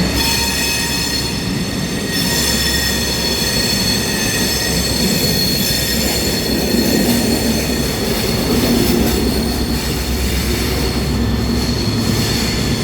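High Speed Train (HST) running through the station, its wheels squealing on curved track as a cluster of steady high-pitched tones over the continuous low rumble of the train.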